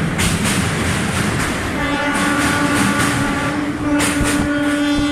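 Indian passenger train running, heard from inside a coach at a barred open window: steady rumble with regular clickety-clack of wheels over rail joints. About two seconds in a train horn sounds a long steady blast that is still going at the end.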